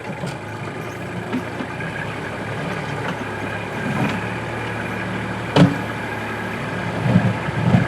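Kubota backhoe's diesel engine running under load as its front bucket grinds across hard lamproite rock. A single sharp clank comes about five and a half seconds in, and rougher scraping follows near the end. The rock is barely breaking, and the blade is having a rough time going across it.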